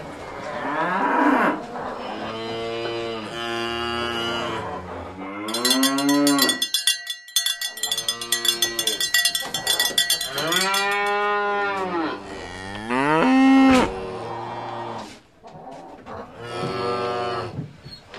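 Cattle mooing over and over, about seven long moos that rise and fall in pitch. A fast, regular high ringing runs under them for several seconds in the middle.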